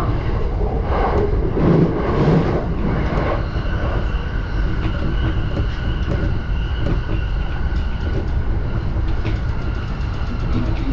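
JR Yamanote Line train car running between stations, heard from inside: a steady rumble of wheels on rail with a steady high-pitched tone over it and scattered clicks, swelling briefly louder about two seconds in.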